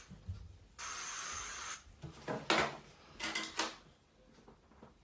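A steady, sharp-edged hiss lasting about a second, starting a little under a second in, followed by a few light clicks and rustles from handling during hair styling.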